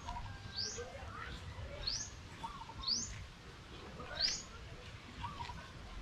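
A bird calling repeatedly: four short, high, rising chirps about a second apart, over a steady low background noise.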